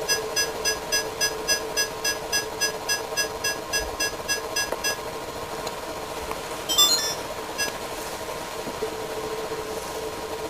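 Samsung robot vacuum cleaner beeping rapidly, about four beeps a second, over the steady hum of its motor. The beeping stops about five seconds in, and a short electronic chirp sounds a couple of seconds later.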